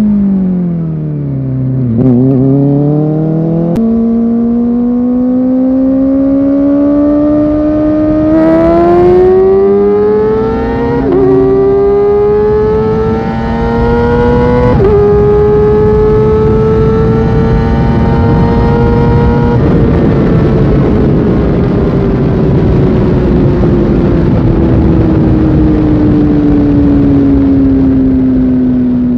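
Kawasaki Ninja ZX-4R's 399 cc inline-four engine under way. The revs fall over the first two seconds, jump up near four seconds, then climb with quick drops in pitch at two upshifts. After that the engine holds steady and slowly winds down over the last ten seconds, with rushing wind noise.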